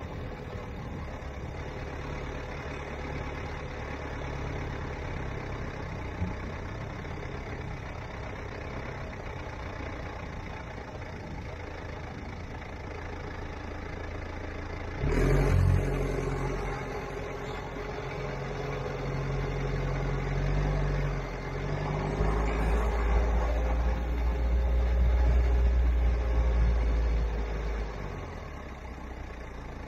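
Vehicle engine running with road noise, steady at first. About halfway through it turns suddenly louder, and in the later part a heavier low engine rumble swells, then eases off shortly before the end.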